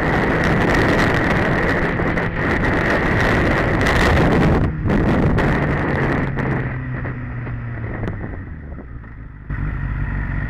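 Motorcycle on the move, heavy wind rush on the rider's camera microphone over a steady engine hum. The rush eases off about two-thirds of the way through, then switches abruptly back to loud road noise near the end.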